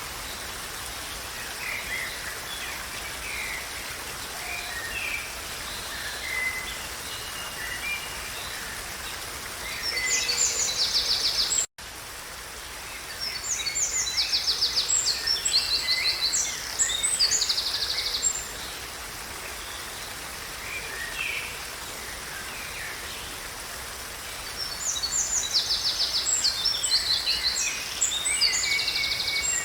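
Songbirds singing in repeated bouts of rapid trills and chirps over a steady background hiss, with the song swelling loudest in three stretches. A brief dropout cuts the sound about twelve seconds in.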